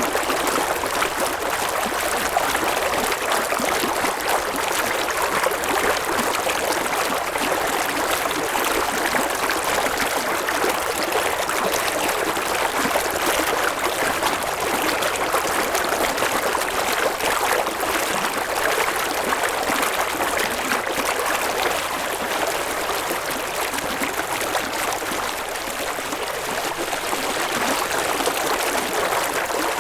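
River water flowing and burbling over rocks, a steady rushing sound.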